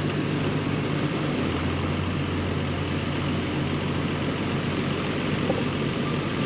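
Heavy diesel equipment engine running steadily with a low hum. A backup alarm starts beeping near the end.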